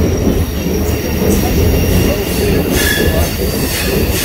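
Royal Gorge Route passenger train running, heard from outside the coach: a steady low rumble of wheels and cars on the track with thin, steady high squealing tones above it.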